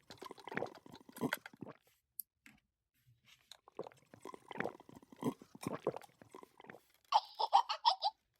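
Two stretches of crunchy chewing and biting sounds, as of pretend eating, then a short high-pitched giggle near the end.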